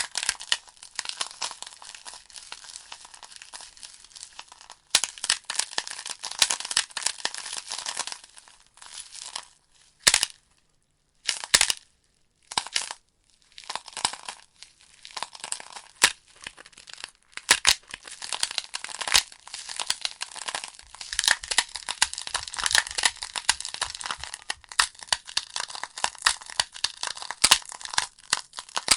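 Logs burning in a fireplace, crackling with dense, irregular pops and snaps over a light hiss. The crackling thins out and almost stops for a moment about ten to thirteen seconds in, then picks up again.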